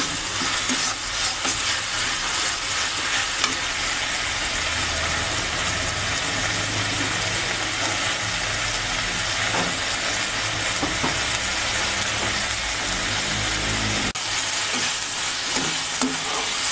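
Onion paste sizzling steadily in hot oil in a metal kadai, stirred and scraped now and then with a metal spatula as the onion fries.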